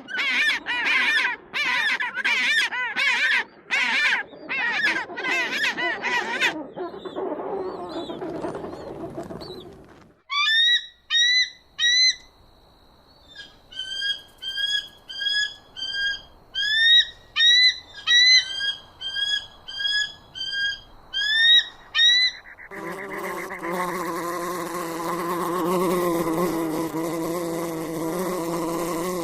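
Several animal recordings in a row: about six seconds of loud, repeated pitched calls, then a series of short, rising chirped bird notes, and from about three-quarters of the way in a steady buzzing hum like flying insect wings.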